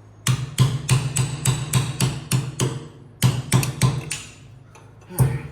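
Hammer striking steel lock tabs to bend them over against bolt heads, ringing metal blows about three or four a second. The blows pause about a second before the end, then start again.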